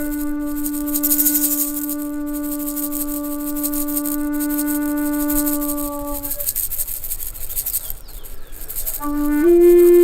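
A flute holds one long low note for about six seconds, then falls silent. After a pause with a faint rattling hiss, a new note starts near the end and steps up in pitch. A steady high hiss runs underneath.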